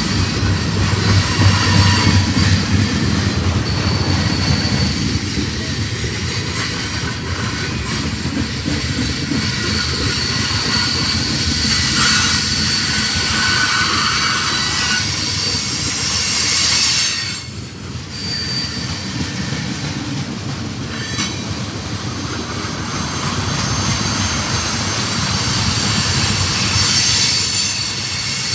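A double-stack freight train's well cars rolling past at close range. Their steel wheels rumble on the rails, with a high, steady wheel squeal over the noise. The noise drops briefly about 17 seconds in.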